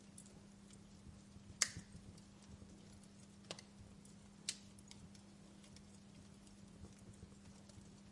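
Wood fire in a fireplace crackling: scattered sharp pops, the loudest about one and a half seconds in and two more a few seconds later, over a faint steady low hum.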